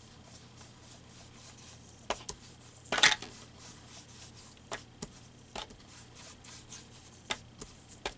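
An ink pad dabbed against the edges of a paper piece on a craft table: a run of separate light taps and knocks at uneven intervals, the loudest a quick cluster about three seconds in.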